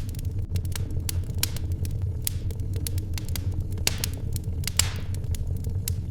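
Wood fire crackling in a fireplace: irregular sharp pops and snaps over a steady low rumble, with a brief hiss about four seconds in.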